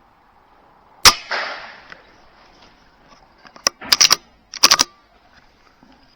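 Air rifle firing a single sharp shot about a second in, with a fading rush of sound after it. Then a lone click and two quick clusters of sharp clicks follow a few seconds later.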